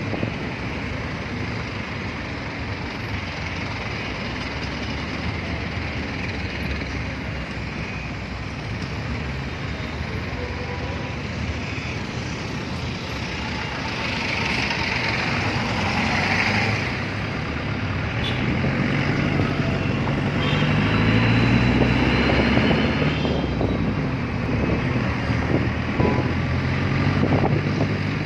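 Street traffic: vehicle engines and tyre noise on the road, with a heavy engine's low hum coming up and growing louder in the second half.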